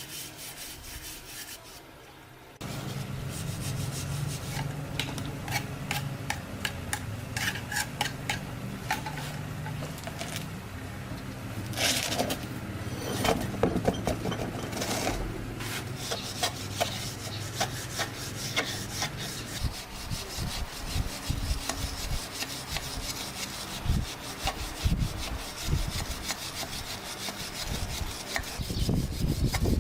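Repeated hand-worked scraping strokes, irregular in pace. Over them a steady low hum starts suddenly about three seconds in and dies away a little past the middle, after which the strokes come with sharper knocks.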